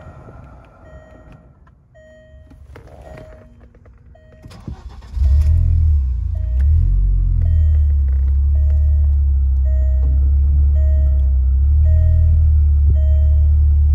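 A short electronic warning chime repeats about every 0.7 seconds. About five seconds in, the 1995 Audi S6's turbocharged 2.2-litre five-cylinder engine is cranked and catches, its revs rise and fall briefly and it settles into a steady idle while the chime keeps sounding.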